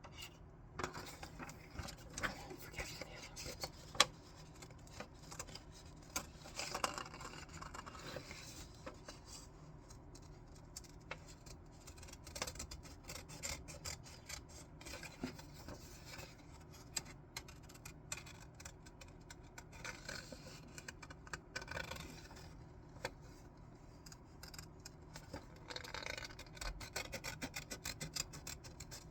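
Scissors cutting paper: a run of uneven snips and paper rustling, with sharp clicks here and there, the loudest about four seconds in.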